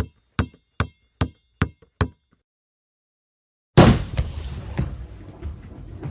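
A string of sharp, evenly spaced knocks, about two and a half a second, for the first two seconds. Then, after a gap, a bowling ball hits the lane with a loud thud about four seconds in and rolls on with a steady rumble toward the pins.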